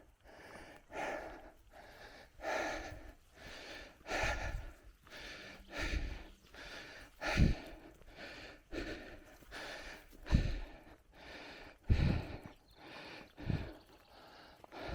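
A cyclist's heavy, rhythmic breathing close to the microphone, a breath about every second and a half, the strongest ones landing with a low thump.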